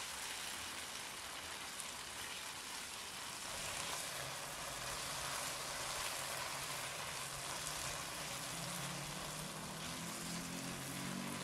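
Spice paste of chilli, shallot and garlic with sliced onion sizzling steadily in oil in a pan while a spatula stirs it, being sautéed until fragrant and the onion wilts.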